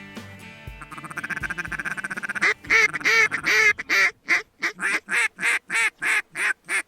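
Duck call blown by a hunter in the mallard hen style: a fast feeding chatter, then a run of about a dozen loud, evenly spaced quacks, cut off sharply.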